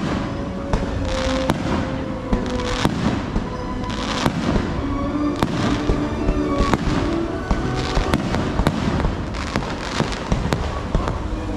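Fireworks display: a quick, irregular series of sharp bangs and crackles, several a second, with music playing underneath.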